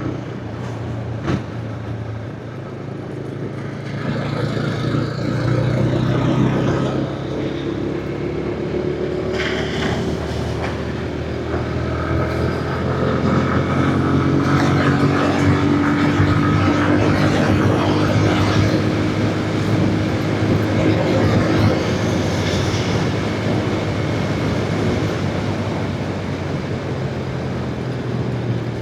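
Motorcycle engine running while riding, with wind and road noise; the engine note shifts up and down with speed, and it gets louder for a while in the middle.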